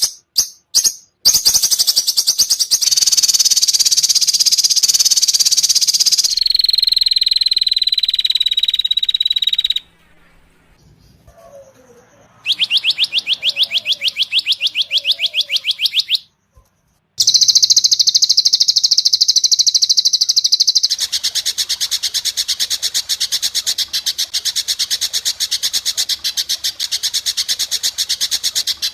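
Spliced recordings of songbird song: a run of fast, high-pitched buzzy trills and rapidly repeated chirps. The segments change abruptly every few seconds, with a short gap about ten seconds in, and near the end a long stretch of quick even pulses.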